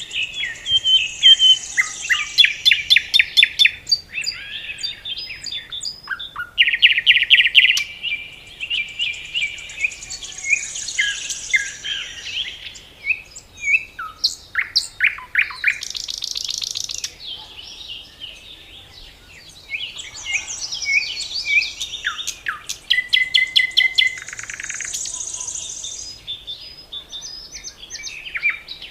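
Several songbirds singing and calling together: overlapping chirps, fast trills and whistled phrases, with repeated rapid series of sharp notes.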